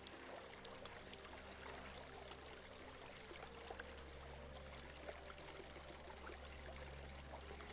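Small shallow stream flowing and trickling, faint and steady.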